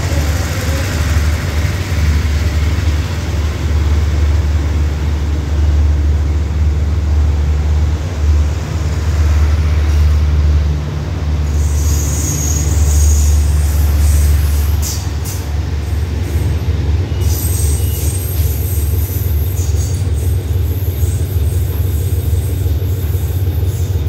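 Passenger train coaches rolling out of the station on steel rails: a steady low rumble of wheels on track. About halfway through come high-pitched wheel squeals, on and off for several seconds.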